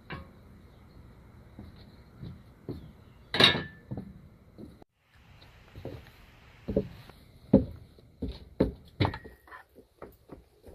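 Scattered knocks and clinks of hand tools and metal parts being handled during work on an outboard motor. One sharp hit about three and a half seconds in, a short hiss a little past the middle, then a quick run of knocks near the end.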